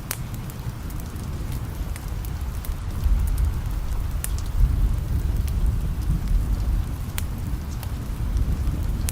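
Steady rain with a low, distant thunder rumble that swells about three seconds in and stays up, and scattered sharp ticks of drops or crackles over it.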